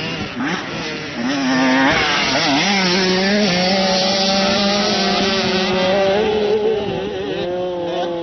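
Motocross motorcycle engines revving, with several bikes at once. One gets loud about two seconds in and holds a steady high pitch, easing slightly near the end.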